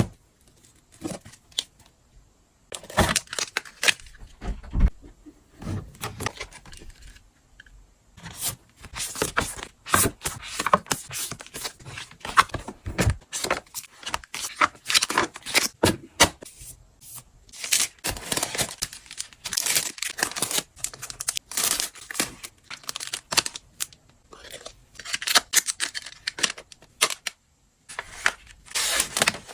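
Packaging being handled while books are packed: tearing and crinkling of wrapping material, with rustles and small taps in irregular bursts and short pauses between them.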